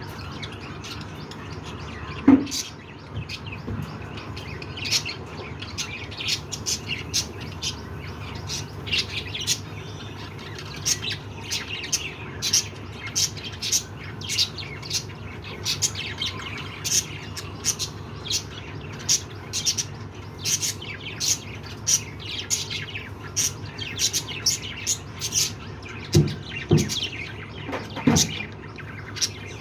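Budgerigars chirping: a continuous run of many short, high chirps. A few dull knocks stand out, the loudest about two seconds in and two more near the end.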